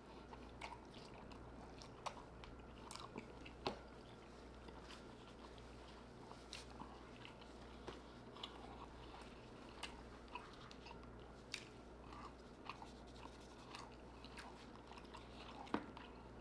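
A person chewing a mouthful of seafood close to the microphone: soft wet mouth smacks and clicks at irregular intervals, over a faint steady low hum. A sharper click comes about a second before the end.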